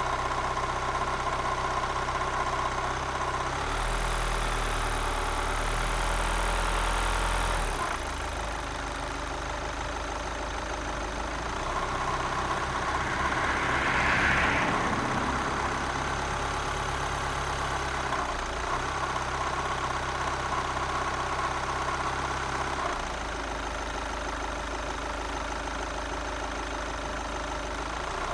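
Volkswagen 2.0 TDI common-rail diesel (CFHC) running around idle, its engine speed shifting in steps several times. Just above idle it makes a grinding noise from the high-pressure fuel pump area, which the owner suspects is a failing high-pressure fuel pump.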